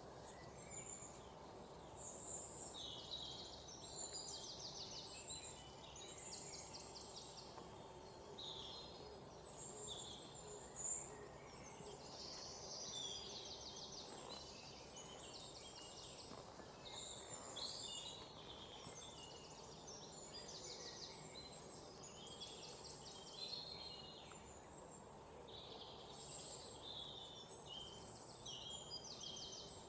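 Several small birds chirping and trilling, with fast trills of rapidly repeated high notes recurring throughout, over a steady low background hiss. A single sharp click about eleven seconds in is the loudest sound.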